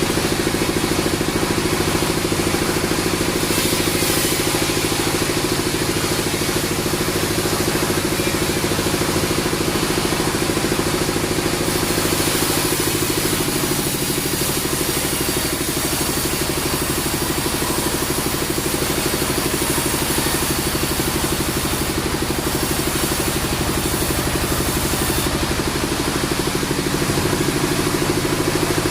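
Band sawmill machinery running steadily: a constant engine-like hum under dense mechanical noise, the higher part of the noise changing about twelve seconds in and again near the end.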